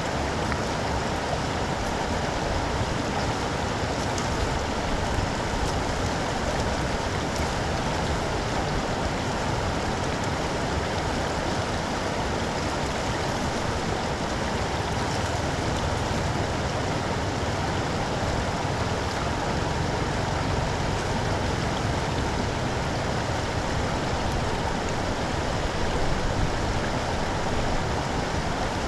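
Steady rush of floodwater pouring into a street storm drain.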